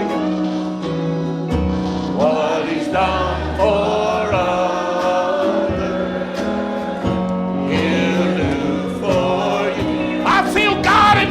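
Gospel worship music: sustained keyboard chords and a bass line, with voices singing over them from about two seconds in.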